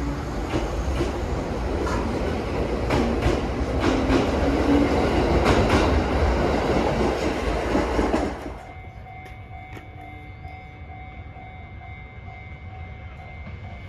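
Chichibu Railway electric train pulling out of a station and gathering speed: a growing rumble with wheels clicking over the rail joints. About eight seconds in it cuts off abruptly to a much quieter background with a faint steady tone.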